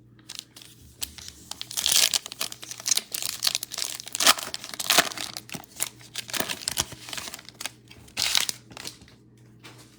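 Foil trading-card pack wrapper being torn open and crinkled, in irregular rustling bursts with the loudest about two, five and eight seconds in.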